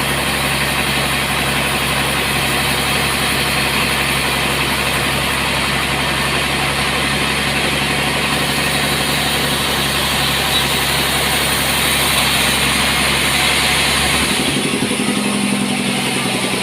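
Sawmill machinery running steadily with a loud, constant engine-like hum. About fourteen seconds in, the deepest part of the hum drops away and the pitch shifts.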